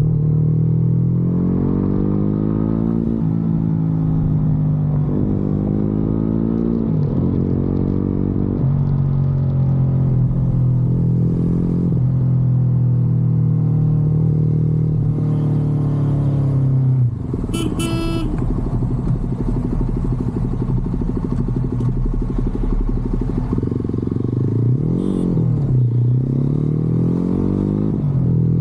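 Motorcycle engine running under way. Its pitch climbs and drops back several times in the first half as it goes up through the gears, then holds fairly steady. About 17 seconds in the throttle closes and the engine note falls, with a brief sharp sound, before it picks up and climbs again near the end.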